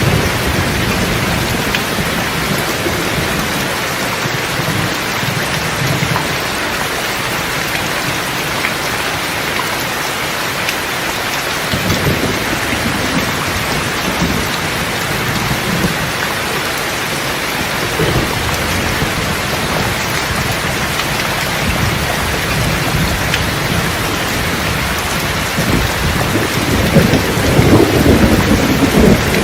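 Steady heavy rain with rolling thunder; the thunder rumbles low a few times and swells louder near the end.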